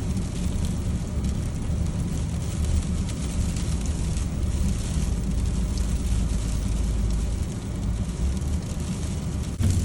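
Four-wheel-drive pickup truck driving on an icy road, heard inside the cab: a steady low engine and road rumble with an even hiss above it.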